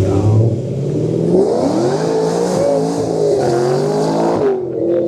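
Cammed 6.0-litre car engine revving hard: its pitch climbs about a second and a half in, wavers at high revs, then drops and cuts off suddenly about four and a half seconds in.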